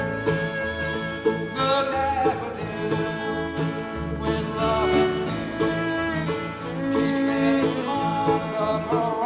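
A small live band playing a country-style song, with sustained melody notes over a steady, regular bass beat.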